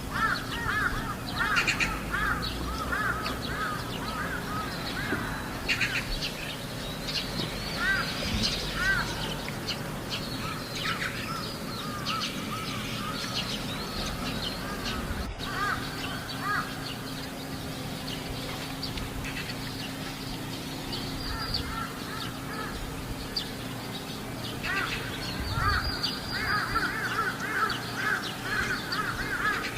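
Crows cawing over and over, in quick runs of harsh calls at the start and again near the end, sparser in between.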